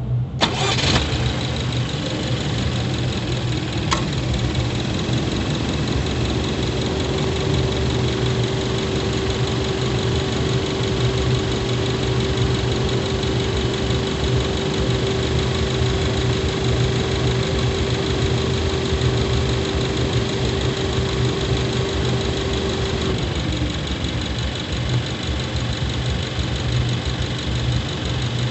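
Subaru Levorg 1.6GT-S's turbocharged 1.6-litre flat-four running while the car is driven, heard close up from the engine bay near the intake: a steady hum with a steady mid-pitched tone over it that drops in pitch a little before the end. A short sharp knock sounds just after the start.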